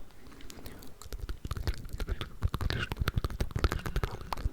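Close-miked ASMR mouth sounds, a dense run of wet clicks and smacks, layered with unintelligible whispering. The clicks thicken about a second in.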